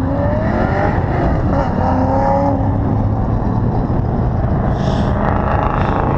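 Car engines revving and accelerating, the pitch rising in pulls near the start and again about two seconds in, over a continuous low engine rumble.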